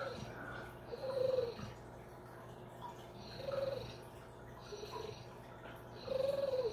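A pet making short squeaky whistles with its breathing, each rising then falling in pitch and lasting about half a second, repeated every one to two seconds over a steady low hum.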